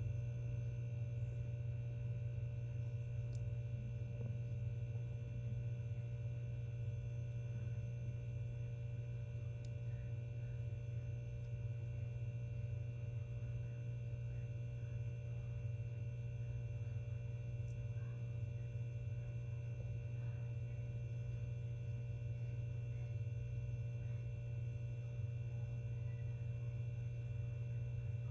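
A steady low electrical hum, with fainter steady tones above it.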